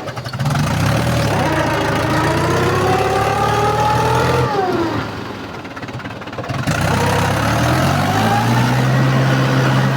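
Mahindra 275 DI tractor's diesel engine revving up steadily, dropping off sharply about halfway through, then revving up again and holding high revs near the end.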